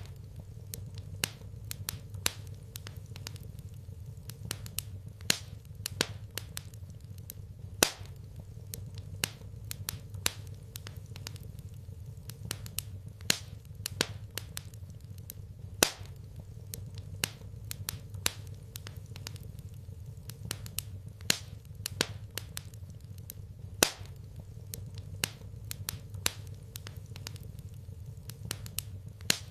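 Wood fire crackling in a fireplace: irregular sharp pops and snaps, a few much louder than the rest, over a steady low hum.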